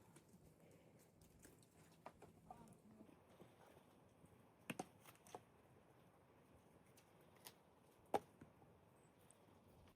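Near silence with a few faint, short clicks or knocks scattered through it; the clearest come about five seconds in and just past eight seconds.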